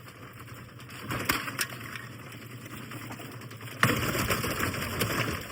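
Washing machine being broken up: a few sharp knocks, then about four seconds in a sudden, louder run of crackling and crunching.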